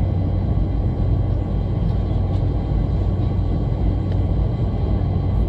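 Steady low rumble of engine and airflow noise heard inside the cabin of a Boeing 747 airliner.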